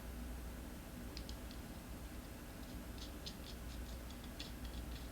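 Faint, irregular light clicks and ticks of small parts being handled by hand, a few about a second in and then more frequent from about three seconds in.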